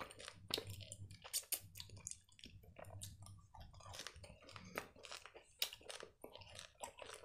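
Close-miked chewing of a soft, sugar-coated gummy candy: many small irregular mouth clicks and smacks. The gummy is a little hard to chew even though it is soft.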